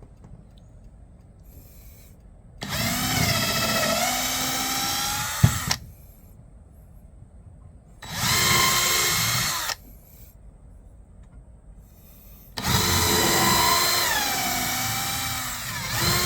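Power drill boring pilot holes into birdhouse wood: three separate runs of the motor whine, each a couple of seconds or more, the pitch wavering and falling off as each run ends.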